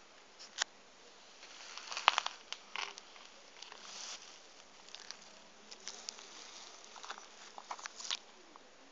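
Small electric motors of a Bruder Valtra toy tractor converted to radio control, whirring in short bursts as it is driven, with sharp plastic clicks and rattles between them.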